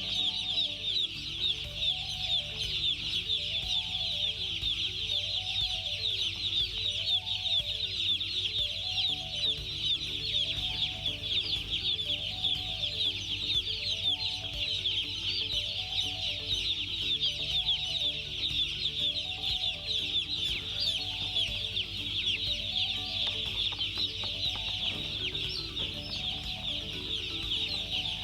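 A crowd of broiler chicks peeping without pause, a dense chorus of many overlapping high chirps.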